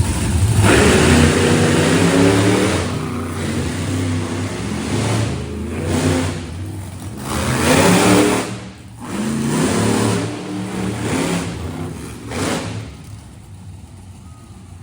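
Monster truck engines revving hard in repeated surges, the pitch climbing and falling with each burst of throttle, then easing off near the end.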